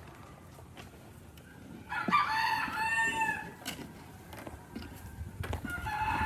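A rooster crowing: one long call about two seconds in, and another starting near the end.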